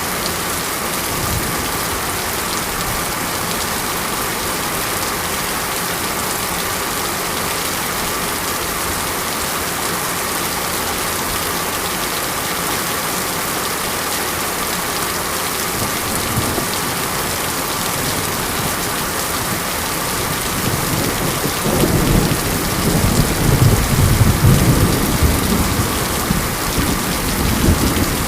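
Steady heavy rain falling, with a low rumble of thunder rolling in about three-quarters of the way through and lasting several seconds.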